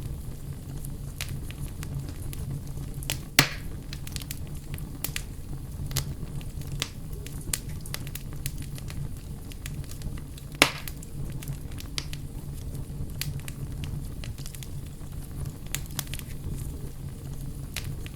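Wood campfire burning: a low steady rumble of flame with scattered crackles and pops, two of them loud, about three seconds in and about ten and a half seconds in.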